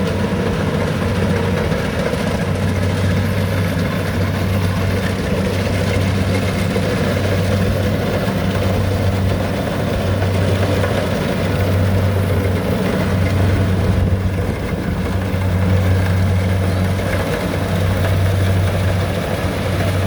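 Rice combine harvester engine running steadily, a deep hum that swells and eases every couple of seconds.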